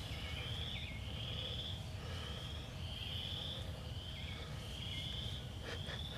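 A calling animal trills in repeated buzzy, slightly rising notes, about one each second, over a steady low rumble.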